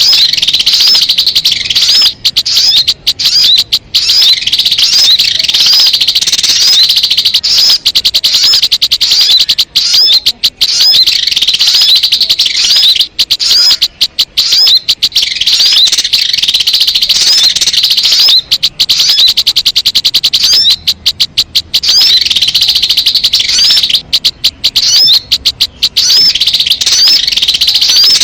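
Lure recording of sogok ontong (sogon) birds: fast, high-pitched chirps repeated without let-up, broken by short pauses.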